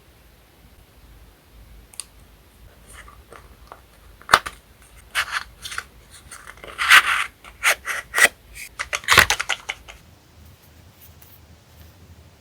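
Paper goods handled by hand: irregular crinkles, rustles and crisp clicks, loudest from about four to ten seconds in, then stopping suddenly.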